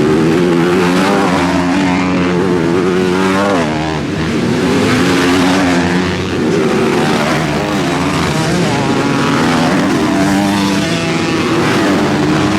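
Motocross bike engines running hard on the track, several overlapping, their pitch repeatedly rising under throttle and dropping off.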